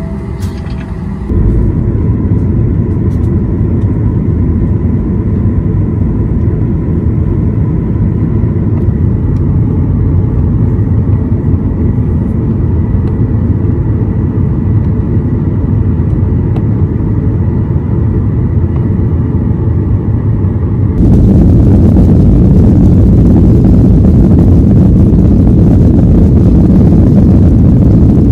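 Airliner cabin noise: a loud, steady rumble of engines and airflow heard from inside the plane. It jumps suddenly louder about 21 seconds in.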